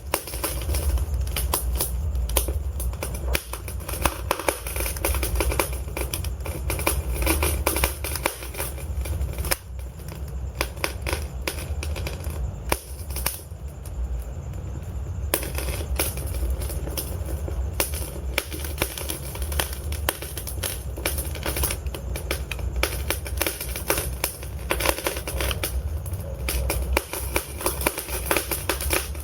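Wood fire crackling and popping, with constant sharp snaps over a low steady rumble of the burning logs.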